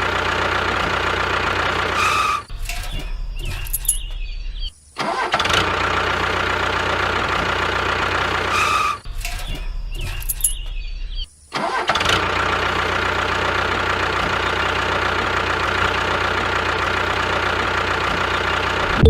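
A tractor-type engine running with a steady drone that cuts out briefly and restarts several times. The same stretch of sound repeats, as if looped.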